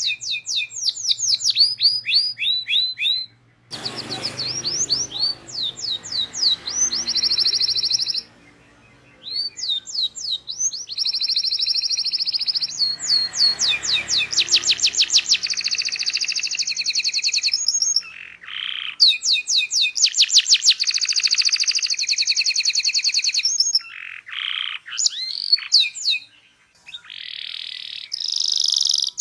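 Domestic canary singing a long, continuous song of fast trills and rolls: runs of quick downward-sweeping chirps alternate with rapid buzzy rolls, broken by a few short pauses.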